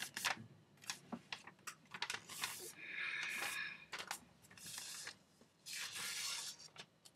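Sheet of printer paper being folded and creased by hand: crackling rustles and clicks, with several longer swishes as the fold is pressed and smoothed flat.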